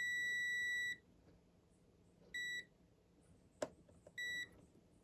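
A digital multimeter's continuity buzzer: a high steady beep that cuts off about a second in, then two short beeps, the sign of a closed circuit across the probes. Between the short beeps there is a single sharp tick.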